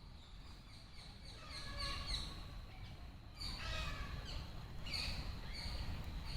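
Birds chirping in quick runs of short falling notes, with a low rumble of wind on the microphone underneath.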